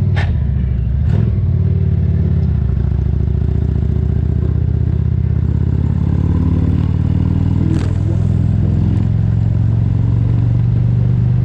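2023 Indian Roadmaster's Thunderstroke 116 air-cooled V-twin running steadily at cruising speed, heard from on the bike, its note shifting slightly a couple of times. A few short sharp clicks cut through it.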